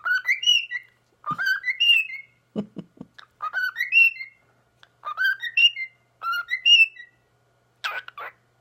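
Young cockatiel whistling a short tune of several rising notes, repeated about five times, with a brief harsh chirp near the end.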